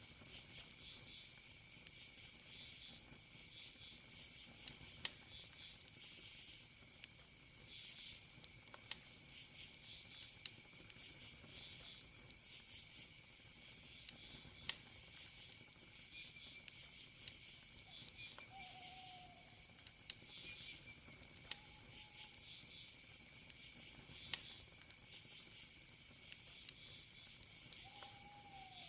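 Wood campfire crackling, with sharp pops every second or so, over a steady cricket trill and pulsing insect chirps. Three short, slightly falling calls come in the second half.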